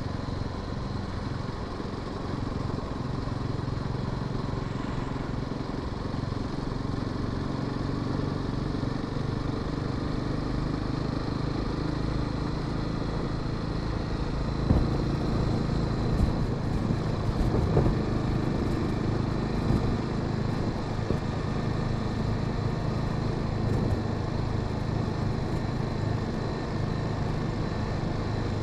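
Honda Sahara 300's single-cylinder engine running steadily on the move, with wind and road noise. A few brief sharp sounds come about halfway through.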